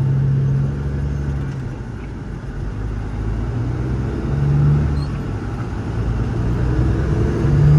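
Diesel semi truck engine running under load as the truck pulls away, its low drone swelling and easing a few times.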